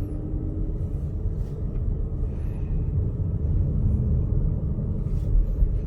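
Steady low rumble of a car on the move, heard from inside the cabin: road, tyre and engine noise from a 2016 Audi Q3 on a road test.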